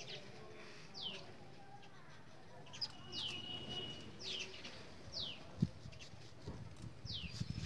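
A bird calling: a short falling whistle repeated about five times, with one held whistled note in between. A single sharp knock sounds about two thirds of the way through.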